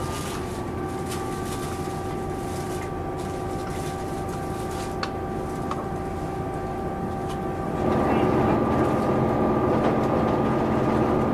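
Inside a Class 158 diesel multiple unit on the move: the diesel engine and transmission drone steadily with a few humming tones. About eight seconds in the sound steps up louder and fuller and stays there, as the train powers up.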